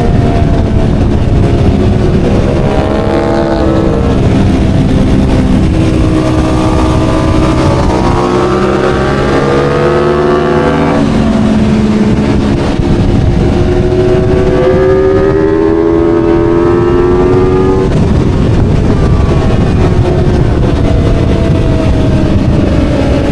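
Aprilia Tuono V4 motorcycle's V4 engine at speed on track, its pitch climbing again and again and dropping sharply about three seconds in, near the middle and near the end, with steady wind and road noise underneath.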